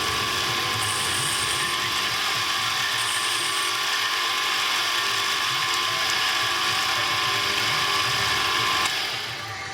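Workshop power tool or machine tool running steadily with a constant whine, stopping near the end.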